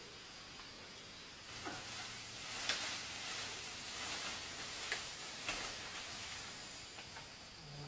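Faint rustling hiss with a few sharp clicks or snaps, scattered about a second apart.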